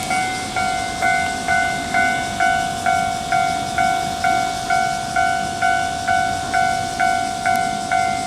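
Japanese railway level-crossing warning bell ringing, an electronic two-tone ding repeating about twice a second, which signals that a train is approaching the crossing.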